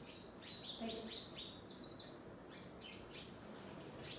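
Small birds chirping: a steady run of short, high chirps, some sweeping down in pitch, about two or three a second.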